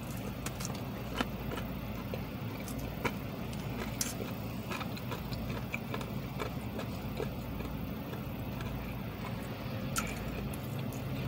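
Quiet chewing of a fried chicken strip, with scattered small clicks and crunches, over the steady low hum of an idling car engine.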